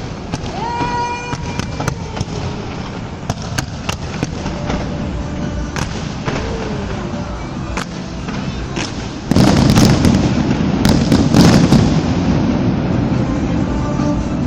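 Fireworks going off in scattered sharp bangs and cracks, turning into a louder, dense barrage of crackling about nine seconds in that lasts a few seconds.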